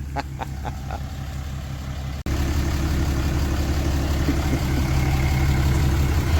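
Pickup truck engine idling steadily. About two seconds in, the sound cuts out for an instant and comes back louder.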